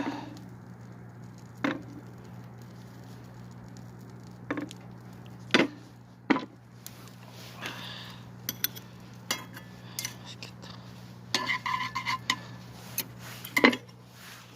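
Scattered knocks and clinks of eating utensils against a metal pot or bowl while ramen is served and eaten, with a short run of ringing metallic clinks near the end, over a steady low hum.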